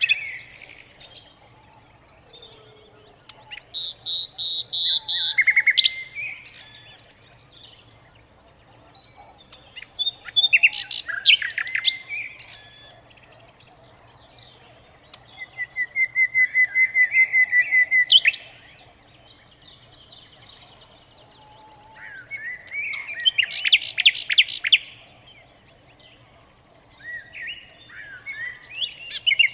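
A songbird singing in separate phrases about every six seconds, each a burst of chirps, fast trills and rapid repeated notes, one a long even trill at about 16–18 seconds.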